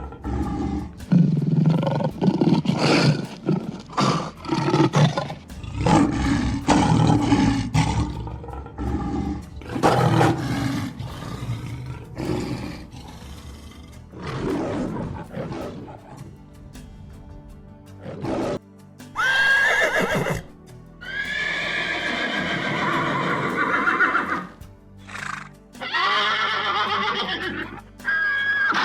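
Animal calls over background music: a run of loud, deep calls in the first half, then several separate high-pitched calls later on.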